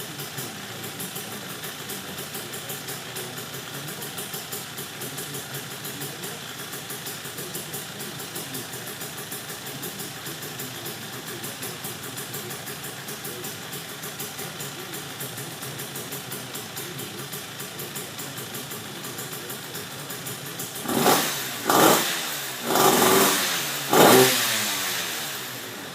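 KTM 85 two-stroke single-cylinder engine in a Yamaha Blaster 200 quad idling steadily, then revved four times in quick succession near the end, the last rev the loudest, its pitch falling back as it settles.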